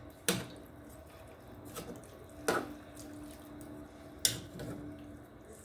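A cooking utensil knocking against a pot, four scattered sharp strikes, over a faint steady hum.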